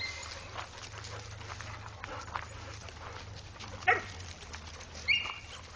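Dogs: one short, sharp bark about four seconds in, then a brief high-pitched squeak about a second later, over a low steady hum.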